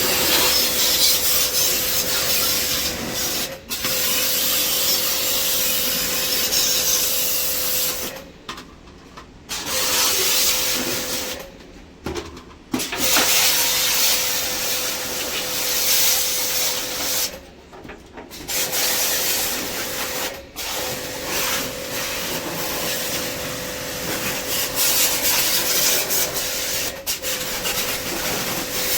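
Pressure pump jet-washing an air conditioner's indoor coil: a loud hiss of spraying water over the pump motor's steady whine. It stops and restarts about five times as the spray is paused.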